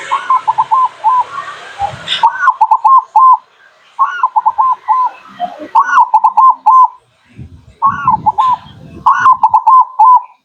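Zebra dove (perkutut) singing its rhythmic cooing song: a rising first note followed by a quick run of short coos, repeated about six times.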